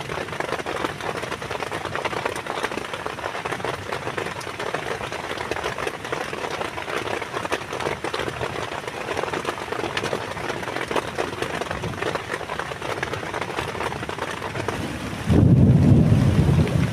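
Heavy rain falling, a dense steady noise full of individual drops striking close by. About a second before the end, a sudden loud low rumble cuts in over it.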